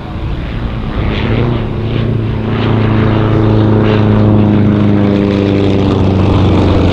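Sukhoi Su-29 aerobatic plane flying by, its nine-cylinder radial engine and propeller droning with a steady pitch. It grows louder over the first two or three seconds, then stays loud.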